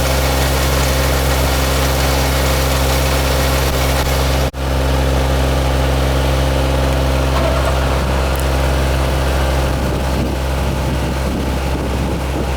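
Yanmar farm machine's engine running steadily at a constant speed, with a very brief gap about four and a half seconds in.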